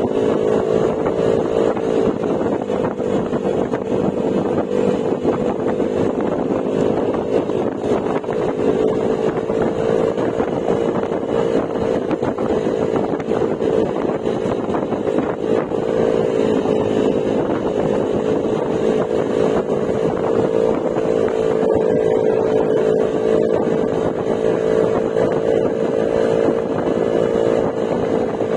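Yamaha Mio Gravis scooter's single-cylinder four-stroke engine running at a steady cruise through an aftermarket Akrapovic exhaust with silencer, a continuous drone whose pitch dips slightly a few times as the throttle eases, with some wind noise.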